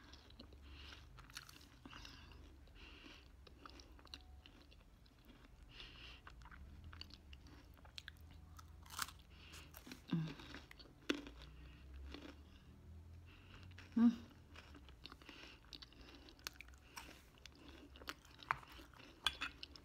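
Close-up chewing and crunching of a chocolate-coated, nut-studded wafer candy, with soft crunches and wet mouth clicks, and a couple of short hums partway through.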